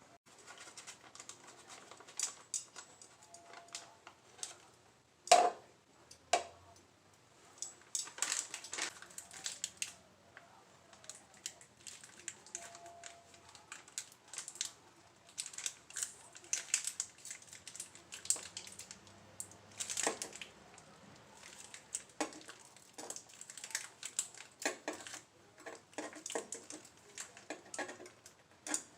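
Food being handled in a kitchen: clusters of quick clicks, taps and crinkles, with one louder knock about five seconds in.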